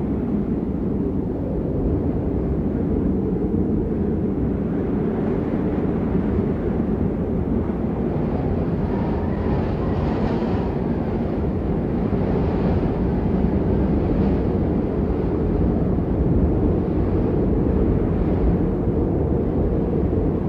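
Wind from a snowstorm buffeting the microphone: a loud, steady low rumble with no breaks.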